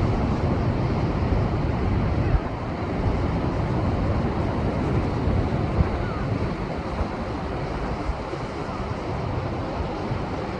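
Rough surf after a typhoon breaking against rocks: a steady rush of waves, with two sharper crashes about two and six seconds in.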